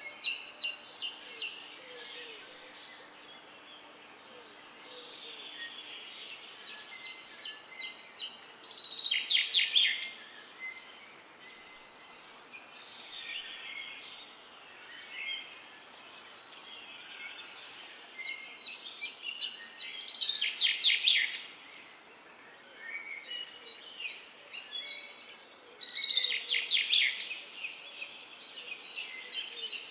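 A songbird singing short phrases of rapid, high-pitched notes ending in quick trills, repeated several times with pauses of a few seconds between them, over a faint outdoor background hiss.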